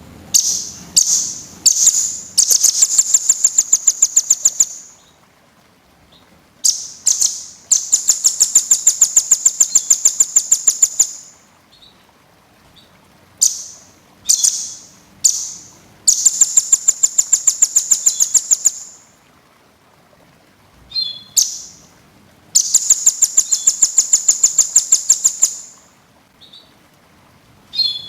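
Cililin bird singing in repeated bouts, about four times: each bout opens with a few quick, high sweeping notes and runs into a long, fast trill of around eight notes a second.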